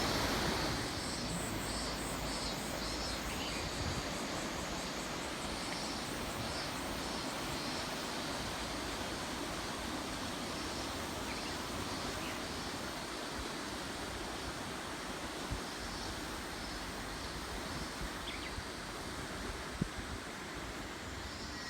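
Steady rushing of the Tama River's flowing water, with a faint, evenly repeating high pulsing over it.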